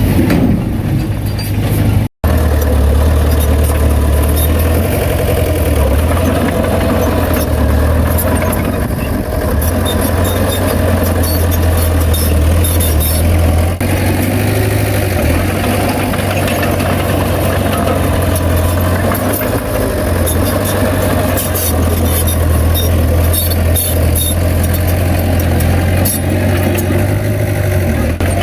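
Heavy diesel engine of earthmoving machinery running steadily at a low pitch, with a scatter of sharp clicks and rattles over it. The sound drops out for an instant about two seconds in.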